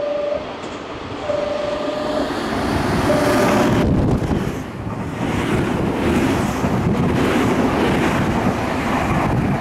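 Nankai 1000 series electric train running into the platform and past close by, its wheel and running noise loudest from about three seconds in, with wind on the microphone. A steady beep sounds three times in the first four seconds.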